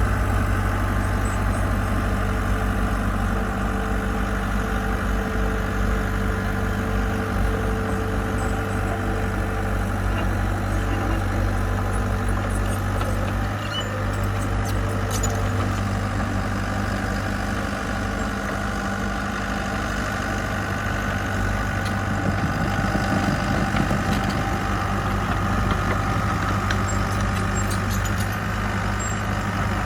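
Diesel engine of heavy construction equipment running steadily at a constant pitch.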